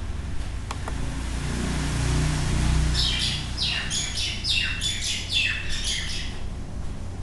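A bird calling in the background: a quick run of falling chirps, about three a second, for some three seconds. Before it, a low hum swells and fades.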